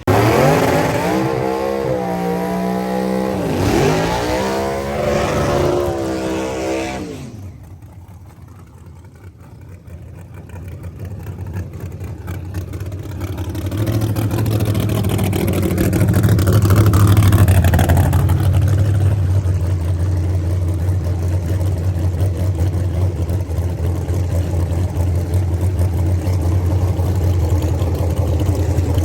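Race car engine revving hard, its pitch climbing, dropping sharply about four seconds in, climbing again and then falling away about seven seconds in. After a quieter moment a steady low engine drone builds and holds.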